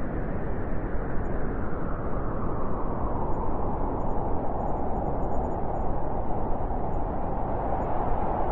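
Blizzard wind blowing hard as a steady rush, with a howl that grows stronger from about three seconds in.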